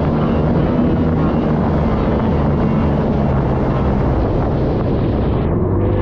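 Stand-up jet ski engine running steadily under way, at a fairly even pitch, mixed with the rush of water and wind.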